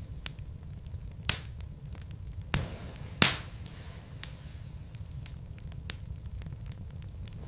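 Wood fire burning in a fireplace: a low steady rumble with many small crackles and a few sharp pops of the burning logs, the loudest a little after three seconds in.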